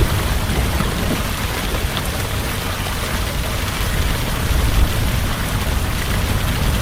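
Heavy rain falling steadily, with a low thunder rumble underneath that eases off and then builds again near the end.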